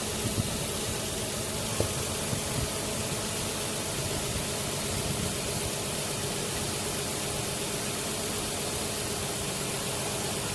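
Infiniti G35x engine idling under the open hood with the air conditioning on full, a steady rushing noise with a low engine hum beneath it. A few light clicks come in the first two seconds.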